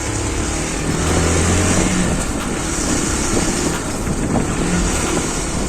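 Motor vehicle engine running close by with traffic noise; its low hum grows louder about a second in, then eases.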